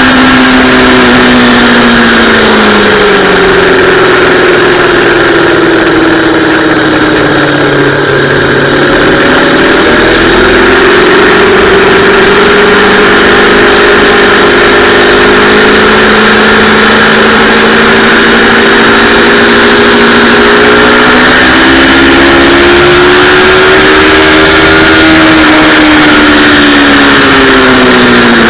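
Yamaha R3's 321 cc parallel-twin engine at track speed, its revs falling and climbing several times as the bike brakes, shifts and accelerates through corners, over a steady rush of wind noise. The revs dip about a third of the way in, climb and hold, rise again later and drop near the end.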